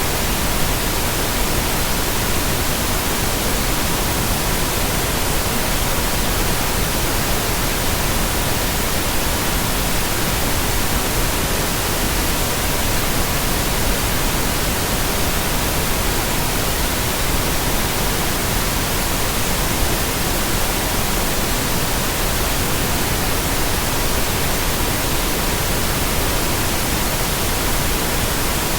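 Steady synthetic pink noise, an even hiss, with a faint pure tone at about 963 Hz held underneath it.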